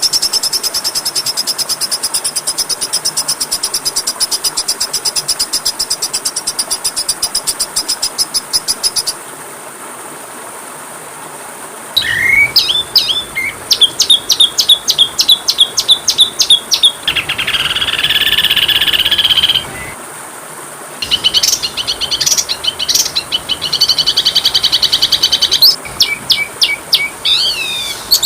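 Songbird song for training a caged magpie-robin. It opens with a long, very fast, high trill of repeated notes. After a few seconds of steady hiss it turns to varied chirps and rapid trilled phrases, with a dense buzzy chatter in the middle, a short pause, and further quick trills near the end.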